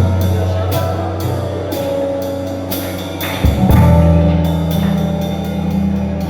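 Church worship band music: a drum kit with regular cymbal strokes, about two a second, over held bass notes that change about three and a half seconds in.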